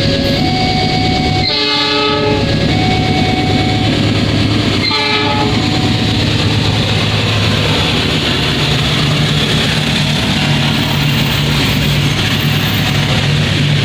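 Diesel locomotive of a passing Indonesian passenger train sounding two short horn blasts, about a second and a half in and again about five seconds in, over an alternating two-note warning tone. After that the low, steady hum of the locomotive's engine and the running train dominates.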